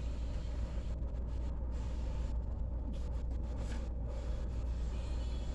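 Steady low rumble of indoor store background noise, with no distinct events.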